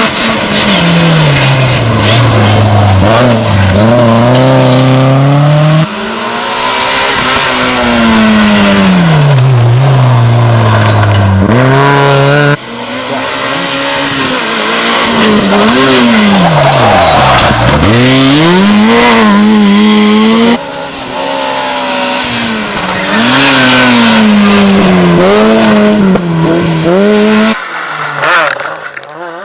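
Rally car engines at full race pace, one car after another, each falling in pitch as it brakes and downshifts into a corner, then rising as it accelerates hard back through the gears. The passes follow one another with abrupt breaks every several seconds.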